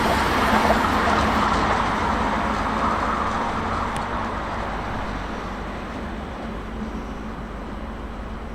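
A train running past on the line, its noise fading steadily as it moves away.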